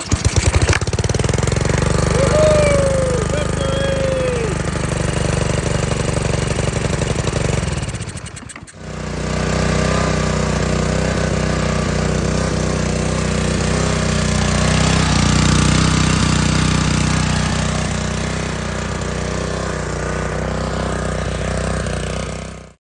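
Honda GCV190 single-cylinder four-stroke pressure-washer engine catching and running after its gummed carburetor was cleaned. About eight seconds in it sags and breaks off briefly, then runs steadily again.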